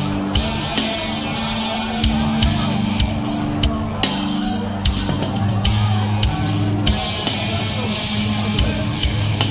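Death crust metal band playing: loud, low held notes that shift in pitch every second or two, under a drum kit crashing cymbals about twice a second.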